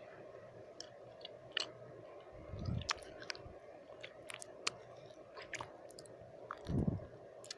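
Close-miked wet mouth sounds: scattered sharp tongue and lip clicks and smacks. Two louder, low breathy puffs come into the microphone about 2.5 s and 7 s in. A steady faint background noise runs underneath.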